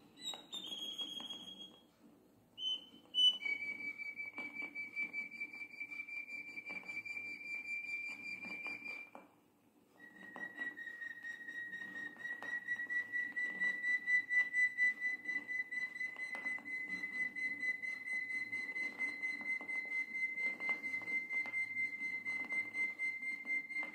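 A bird calling with a few short high whistled notes, then two long, steady, high whistled trills, the first about six seconds and the second about fourteen, each slowly rising a little in pitch.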